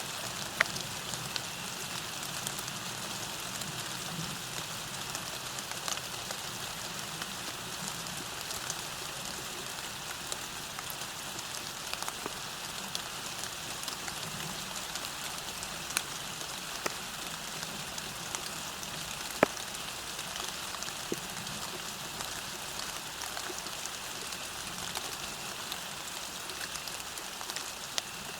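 Steady rain falling, an even hiss with scattered sharper drop hits, a few louder ones standing out.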